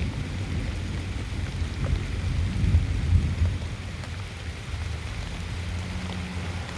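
Rain falling, with faint scattered drop ticks over a strong, uneven low rumble.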